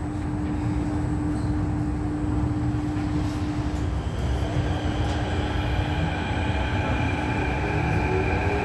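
Kawasaki–CRRC Sifang CT251 metro train heard from on board: a steady low rumble with a constant hum. From about five seconds in, the traction motors' whine sets in and begins to rise in pitch as the train pulls away and accelerates.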